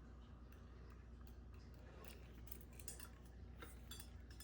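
Near silence: room tone with a few faint, scattered light clicks from ceiling-fan parts being handled.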